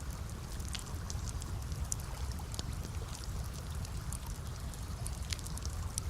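Campfire crackling: irregular small pops and snaps over a steady low rumble.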